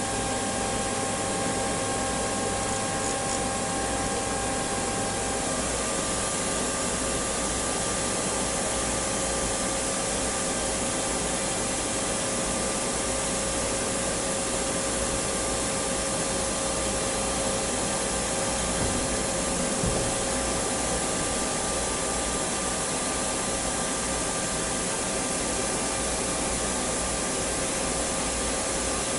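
A metalworking machine tool running steadily: an even hiss with a few steady whining tones, one of which shifts to another pitch about five seconds in.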